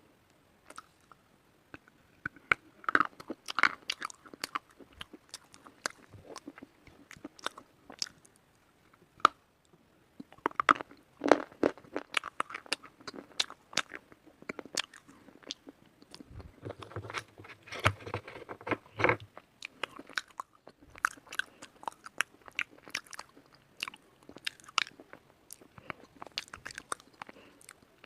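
A person biting and chewing white slate bars: sharp cracking crunches in bouts several seconds long, separated by short, quieter pauses.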